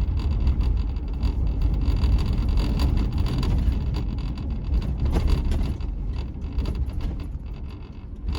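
Road and engine noise inside a moving Chevrolet pickup's cab: a steady low rumble with tyre and wind hiss, easing off near the end.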